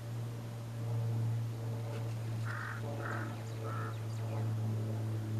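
A steady low hum, with a run of three short bird calls in quick succession about halfway through.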